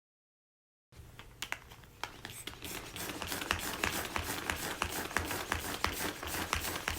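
Dead silence, then from about a second in a quick run of sharp taps and clicks, a few a second, growing louder and going on steadily.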